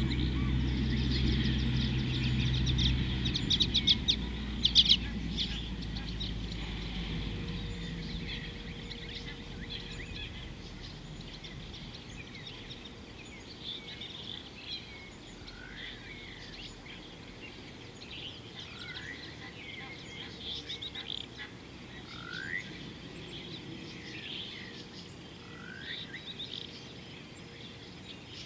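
Wild birds chirping and calling. Rapid trills in the first five seconds, then short rising whistled notes every few seconds. A low steady hum fades away over the first several seconds.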